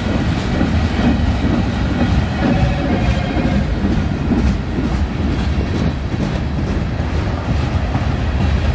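A train rolling past on the rails: a steady rumble of its cars with wheel clatter over the rail joints.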